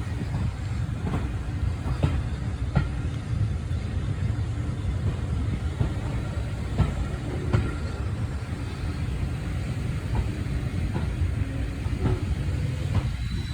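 Railway carriage running along the track: a steady low rumble with irregular sharp knocks from the wheels.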